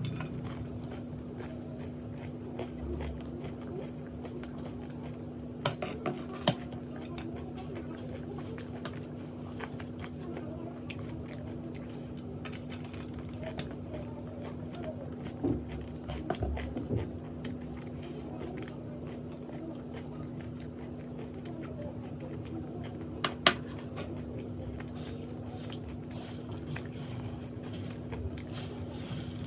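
Close-up eating sounds: chewing and crunching of puffed rice and snacks, with a few sharp clicks of a plate or dish here and there, over a steady low hum.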